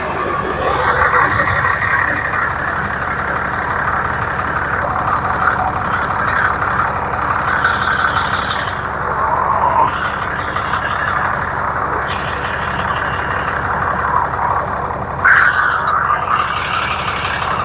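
Dodge Ram 2500's 6.7-litre Cummins turbo-diesel engine running steadily, with a brief louder surge about fifteen seconds in.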